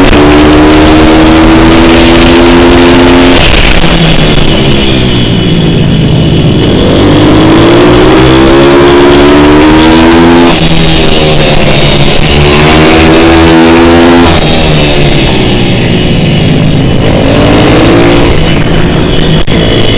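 Pit bike motard's single-cylinder four-stroke engine running loud around a track: its pitch climbs under acceleration, then drops off sharply several times as the rider shifts or backs off for corners, before climbing again.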